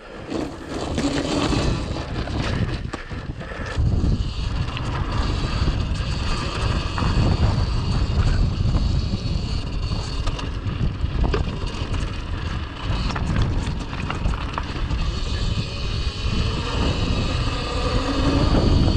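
Cake Kalk OR electric dirt bike under way through snow: a high motor whine over heavy wind buffeting on the microphone. It gets louder about four seconds in.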